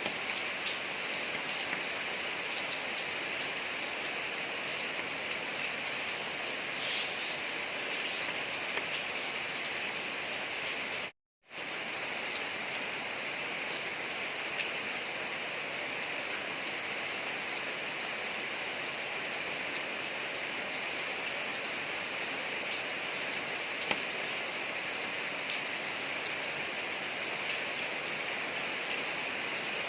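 Steady rain falling on a street: an even hiss with scattered faint drop ticks. It cuts out completely for a moment about eleven seconds in, then resumes unchanged.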